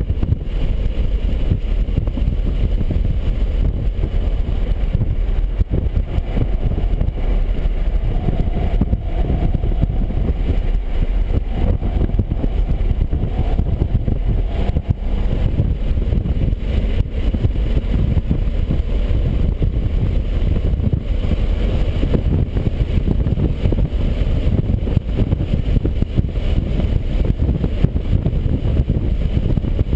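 BMW 135i's turbocharged straight-six driven hard at speed, mixed with heavy road and wind noise in a loud, steady rumble.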